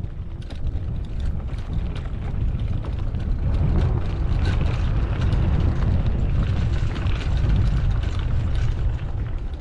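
Wind buffeting the microphone and a mountain bike's tyres rumbling over a dirt track while riding, a steady low rumble with fine crackling, louder from about three and a half seconds in.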